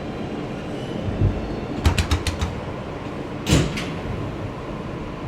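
Steady rumble inside an R160B subway car. About two seconds in comes a quick run of about five sharp clicks, and about a second and a half later two short hisses close together.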